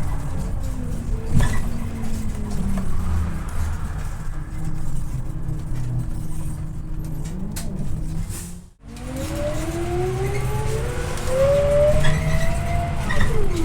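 Scania OmniLink I city bus heard from on board: a steady low engine and drivetrain rumble while the bus slows, a brief cut-out about nine seconds in, then a rising whine as the bus accelerates away, its pitch dropping sharply near the end as the gearbox shifts up.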